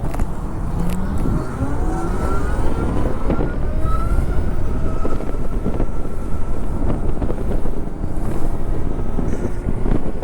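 Zero electric motorcycle's motor whining and rising in pitch as the bike accelerates, then levelling off, over heavy wind and road rumble.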